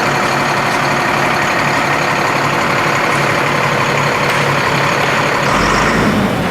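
Volvo FL6 truck's D6A six-cylinder diesel engine running steadily, its sound changing a little about five and a half seconds in.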